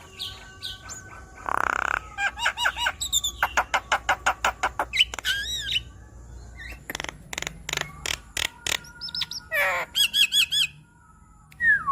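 Javan myna (jalak kebo) singing a busy, varied song: rapid runs of clicks, harsh squawks and repeated arching whistled notes, with a short pause near the end.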